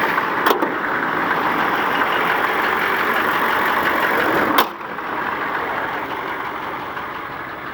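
1993 Chevy 6.5L turbo diesel V8 idling steadily while warming up after a cold start. A sharp clack about four and a half seconds in, after which the engine sounds quieter.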